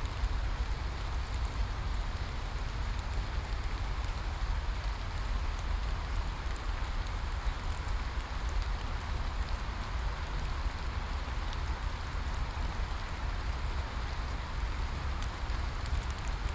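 Steady rain falling, an even hiss with faint scattered drop ticks over a low rumble.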